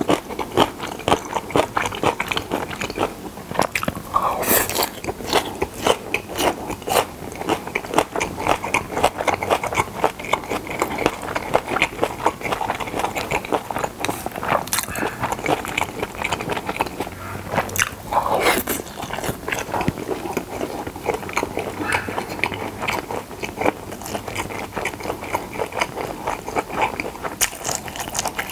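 Close-miked chewing of pressed boiled pork slices (pyeonyuk): a dense, continuous run of clicks and crunches from the mouth, with a few louder crunches.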